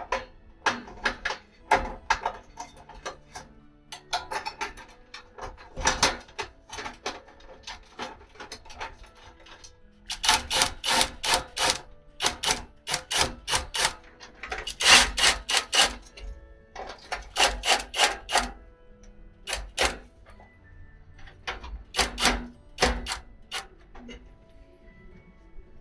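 Quick runs of sharp metal taps and clanks as a steel pail can is worked by hand, over background music.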